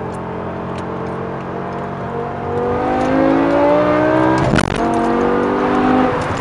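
BMW E60 M5's V10, breathing through a Meisterschaft GTC exhaust with catless headers, accelerating hard: the note holds steady, then climbs for about two seconds. A sharp crack comes about four and a half seconds in as the rising note breaks off, the engine runs on at a steady pitch, and the note drops near the end.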